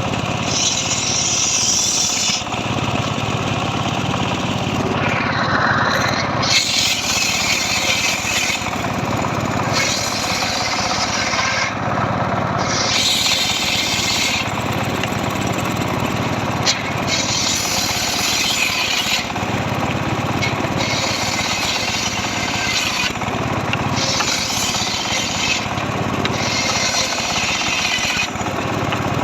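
Engine-driven power saw running steadily and cutting dry mahogany, with a harsher, hissing cutting noise rising over the engine in repeated passes of one to two seconds each, about every three seconds.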